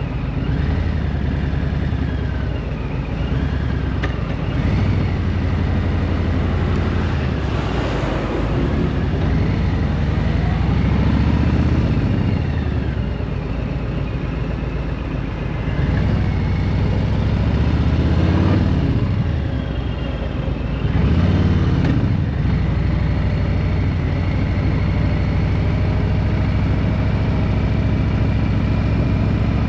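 A vehicle engine running under way, its revs climbing and then dropping back a few times.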